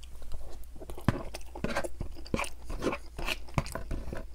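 Close-miked chewing of a mouthful of Spanish rice and broccoli: wet mouth smacks and irregular clicks.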